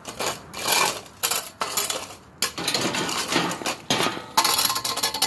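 Irregular clattering and scraping of small chairs being set down and moved into place.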